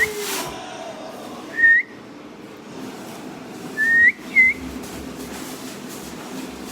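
Three short, clear whistles, each rising at the end: one, then a quick pair about two seconds later.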